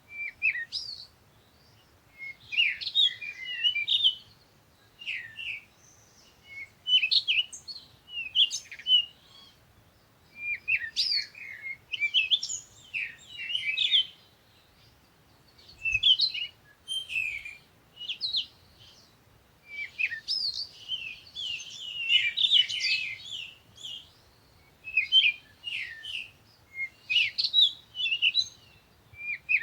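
Small birds chirping and twittering in quick high-pitched clusters, with short pauses between them.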